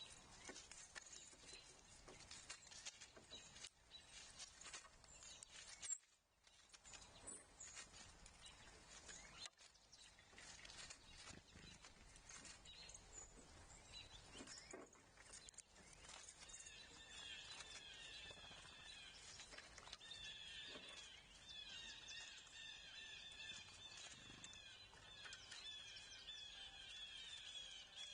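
Faint outdoor ambience with scattered clicks and taps. From a little past halfway, a songbird calls in quick, repeated chirps.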